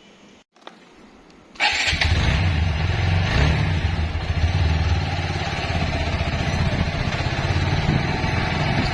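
Motorcycle engine running steadily, coming in suddenly about a second and a half in after a quiet stretch.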